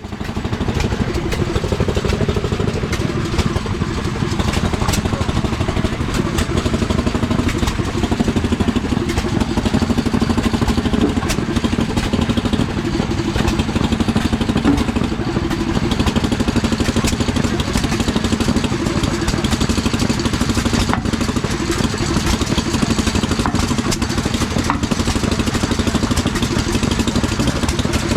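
An engine running steadily, a dense fast pulsing with scattered ticks over it.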